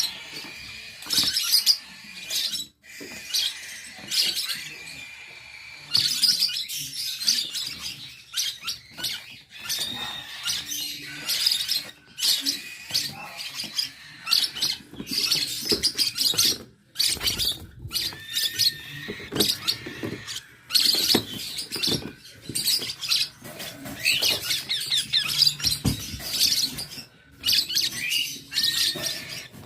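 Small birds chirping and squeaking continuously, many fast high-pitched calls overlapping, with frequent sharp clicks among them.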